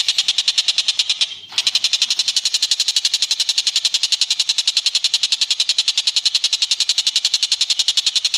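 Bird call recording: a long, very fast, evenly pulsed high chatter, with a short break about a second and a half in before the chatter resumes.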